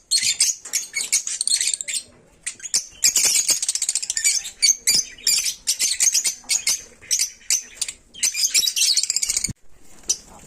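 Pet lovebirds chattering: rapid, high-pitched chirps in dense runs, with a short lull about two seconds in, and they go quieter near the end.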